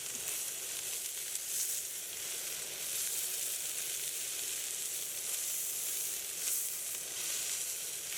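Meat sizzling as it fries, a steady hiss.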